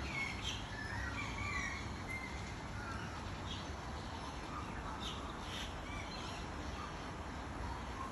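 Scattered short chirps and whistles of small birds, over a steady low background rumble.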